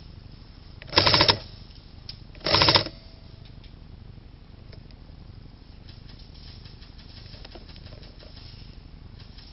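Airsoft electric gun firing two short full-auto bursts, each a fast rattle under half a second long, about a second and a half apart.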